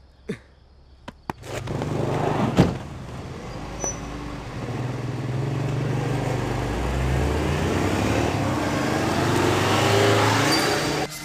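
A car engine comes up about a second and a half in and runs steadily. There are a few clicks before it, and a sharp thump just after it starts is the loudest sound.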